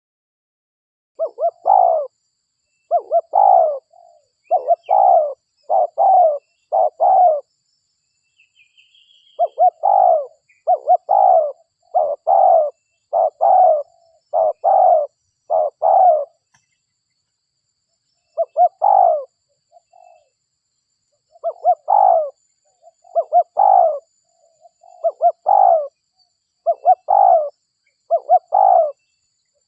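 Spotted dove (derkuku) cooing over and over, in three runs of five to nine coos with short pauses between the runs. A faint higher chirp from another bird sounds once, about a third of the way in.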